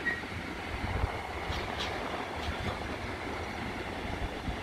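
Freight train of pocket wagons loaded with lorry trailers rolling past, a steady low rumble of wheels on rail with a few sharp wheel clicks.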